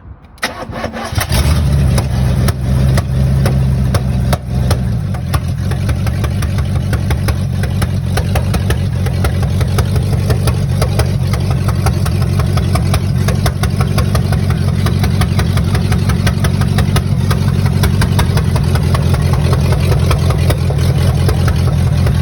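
Car engine cranked and catching about a second in, running fast for a few seconds, then settling into a loud, pulsing idle. It is running without its exhaust pipes, which it still needs fitted as a dual exhaust.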